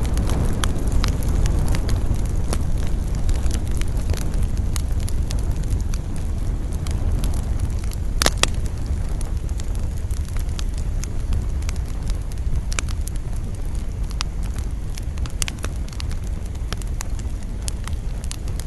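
Wood campfire crackling with irregular sharp pops, one louder pop about eight seconds in, over a steady low rumble of wind.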